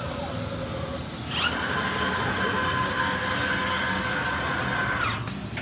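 CNC machine spindle whining up to speed about a second in, holding a steady high pitch, then winding down near the end, over the machine's constant low running noise.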